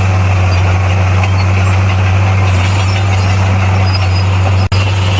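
Bulldozer's diesel engine running at a steady speed with a constant low drone. The sound breaks off for an instant near the end.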